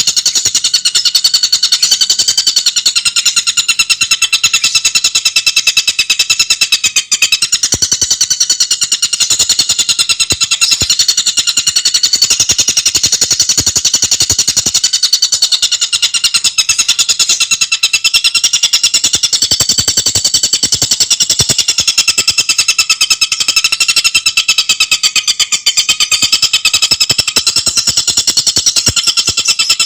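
Tengkek buto calling in a continuous, very fast, tightly spaced high-pitched chattering trill, clear and unbroken.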